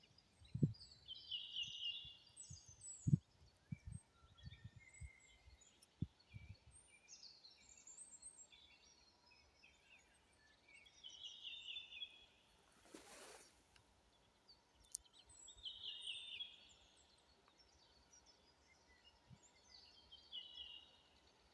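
Songbirds singing, one short song phrase repeated every few seconds, with a few low thumps of wind on the microphone in the first several seconds.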